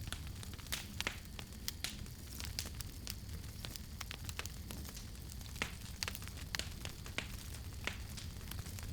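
Wood fire crackling, with frequent sharp irregular pops over a steady low rumble of flame.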